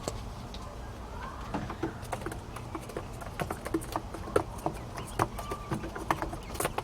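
Quail and pheasant chicks pecking at their feed: a patter of quick, irregular taps that starts about a second and a half in and runs on.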